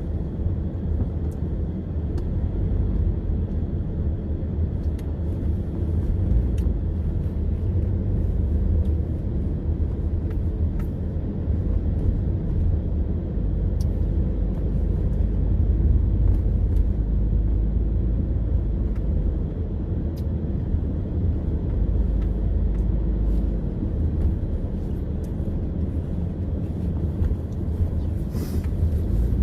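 A steady low rumble with faint ticks now and then.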